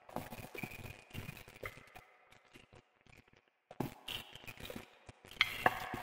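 Wood fire crackling, with irregular sharp snaps and pops. It nearly dies away about halfway through, then picks up again with the loudest pops near the end.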